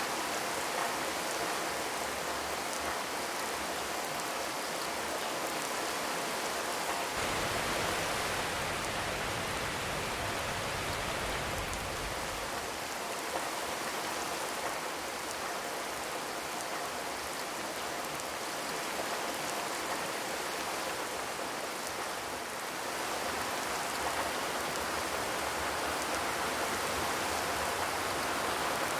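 Steady rain falling on a corrugated zinc roof, with a low rumble coming in for a few seconds about seven seconds in.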